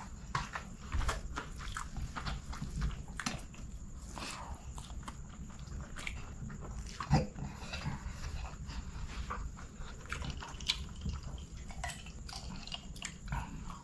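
Close-miked chewing and wet mouth sounds of a man eating chicken biryani with his hands: irregular smacks and clicks, with one sharper, louder click about seven seconds in. Near the end he takes gulps of a drink from a glass.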